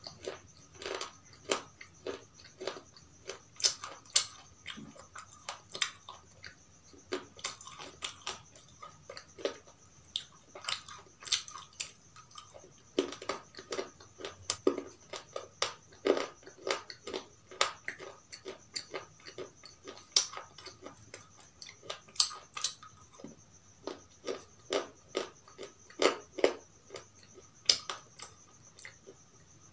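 Close-miked crunching bites and chewing of something crisp: a rapid, irregular run of sharp cracks, a few much louder than the rest, with a faint steady high hum underneath.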